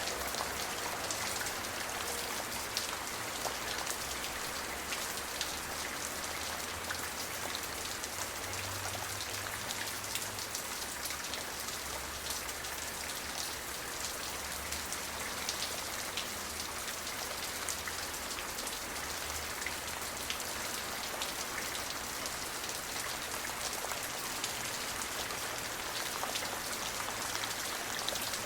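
Steady rain falling, many individual drops spattering on a surface over a continuous hiss, with a faint low rumble beneath.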